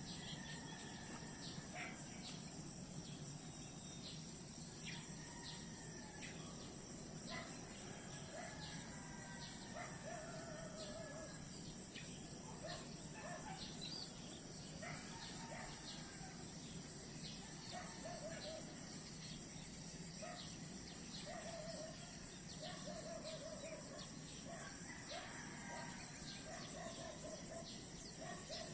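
Outdoor nature ambience: a steady high drone of insects with many short bird calls and trills scattered across it.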